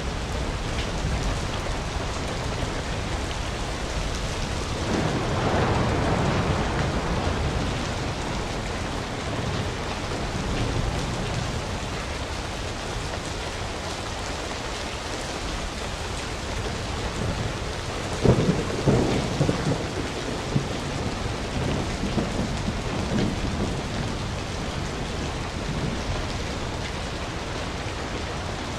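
Steady heavy rain with thunder: a rumble swells about five seconds in, and a few sharp cracks come around the middle.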